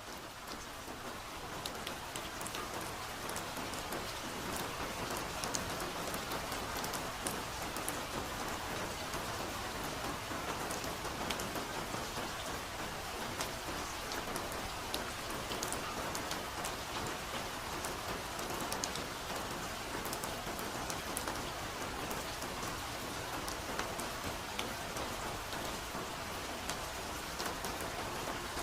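Soft, steady forest rain: a constant hiss of falling rain with many single drop hits ticking through it, swelling in over the first couple of seconds and then holding even.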